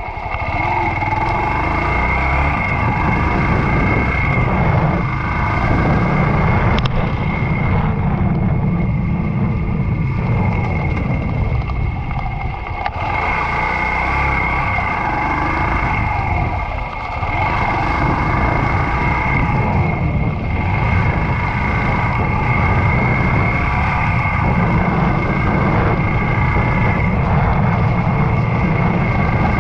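Yamaha YBR125 motorcycle's single-cylinder four-stroke engine running under way, mixed with wind and road noise; the level dips briefly twice, about twelve and seventeen seconds in.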